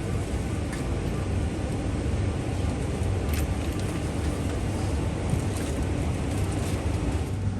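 Steady low hum and rush of a parked airliner's cabin air conditioning, with a few faint clicks.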